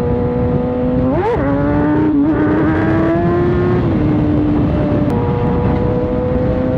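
Inline-four 600 cc sport bike engine heard from the rider's seat under wind rush, holding a steady cruising note. The pitch jumps up and back down about a second in, then the note steps and settles a few times before holding steady.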